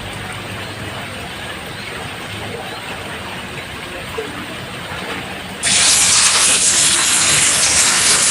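Rain falling on a roof as a steady, even hiss. About two-thirds of the way in it abruptly becomes much louder and sharper, like a sudden heavier downpour, and stays that way.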